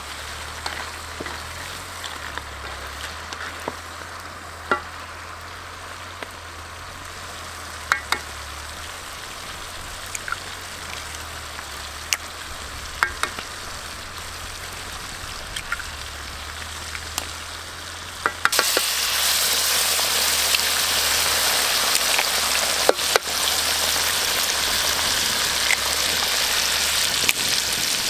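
Crabs frying in a wok over a wood fire: a steady sizzle with scattered sharp taps and clicks of the spatula against the wok. About two-thirds of the way in, the sizzle suddenly gets much louder.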